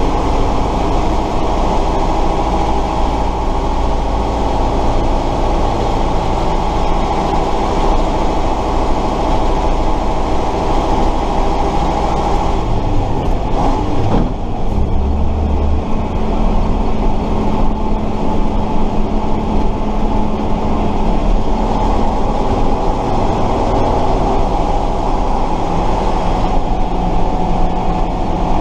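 Tatra 138 fire truck's air-cooled V8 diesel engine running steadily, heard from on board. About halfway through, the engine note dips and shifts briefly, then settles into a steady run again.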